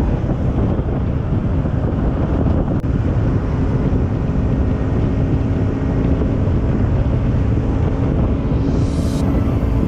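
Wind buffeting the microphone of a riding motorcycle, over the steady hum of the Pulsar NS200's single-cylinder engine at a constant cruising speed.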